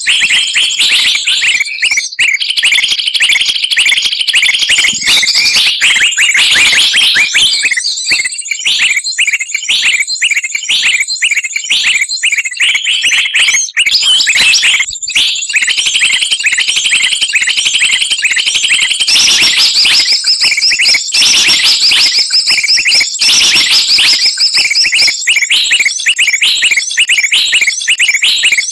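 Bird-trapping lure recording of many small songbirds singing at once: a loud, dense, shrill mass of rapid chirps and trills that never pauses.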